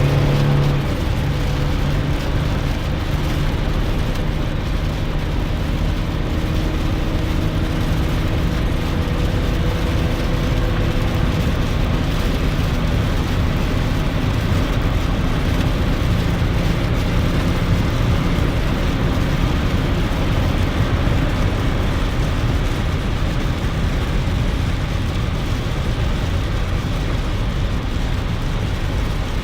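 Cabin noise of a 2001 GMC Sierra pickup driving on a rainy road: a steady hiss of tyres and rain with a low engine hum that fades out about halfway through.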